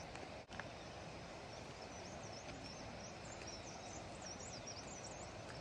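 Birds chirping in short, high-pitched calls, busier toward the end, over a steady outdoor background hiss.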